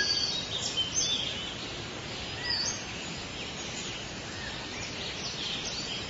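Small birds chirping and twittering in short, high, sweeping notes, busiest around the first second and again near the end, over steady background noise.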